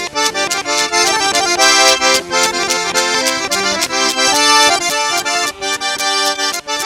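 Traditional accordion music with many sustained notes over a fast, steady beat.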